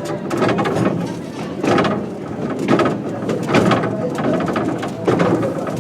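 Heritage train on the move: loud, rumbling running noise with clattering surges about once a second.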